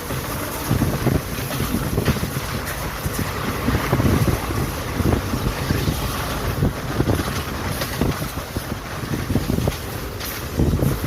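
Express passenger train running, heard from inside the coach: a steady rush of wheels on the rails with irregular knocks and rattles, and wind buffeting the microphone.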